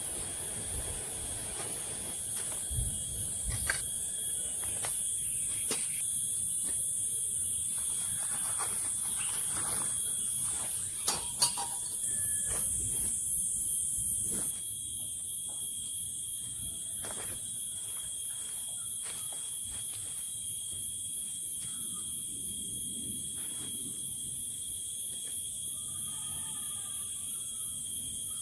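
Forest ambience: a steady high insect chorus with a second thin steady tone beneath it, broken by scattered light clicks and knocks, the loudest a pair about 11 seconds in.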